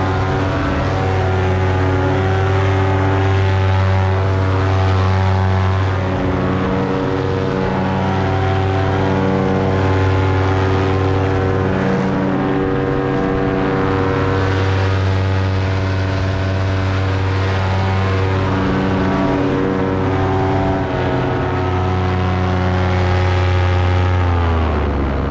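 Paramotor engine and propeller running steadily at a constant throttle, then throttled back near the end so the pitch falls.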